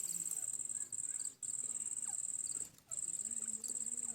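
A high, continuous cricket-like insect trill, broken by short pauses about a second and a half and again near three seconds in. Under it run faint, low, wavering calls.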